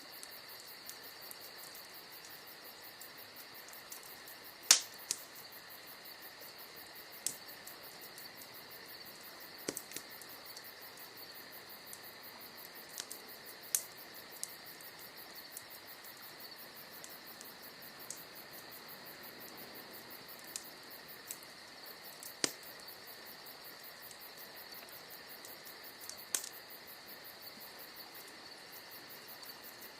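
Wood fire crackling with scattered sharp pops, a dozen or so, the loudest about five seconds in, over a steady high chirring of crickets.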